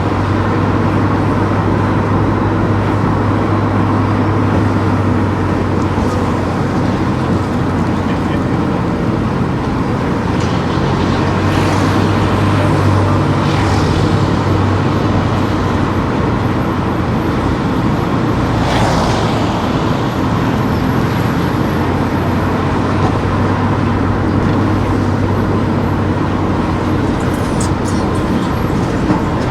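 A car driving on town streets: steady low engine drone and road noise, with brief swells of a vehicle passing about 12, 14 and 19 seconds in.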